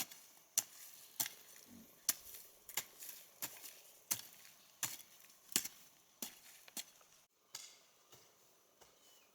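Repeated chopping strikes into wood, a steady rhythm of sharp blows about one every 0.7 seconds.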